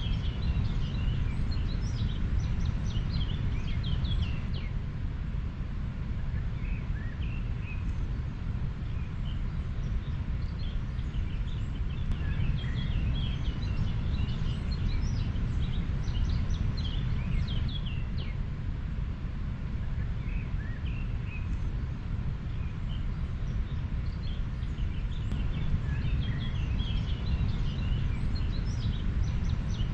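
A river flowing as a steady low rush, with small birds chirping on and off throughout.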